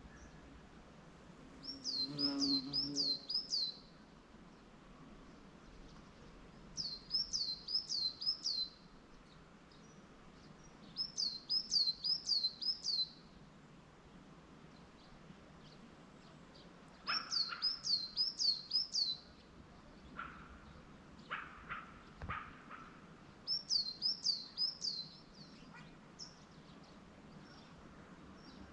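A songbird singing the same short phrase over and over: four or five quick, high, sweeping notes, five times, about five seconds apart. Fainter, lower calls from another bird come in between the phrases near the end.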